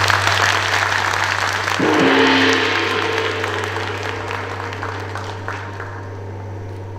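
Audience applause that gradually dies away, over a steady low hum; a short pitched tone sounds briefly about two seconds in.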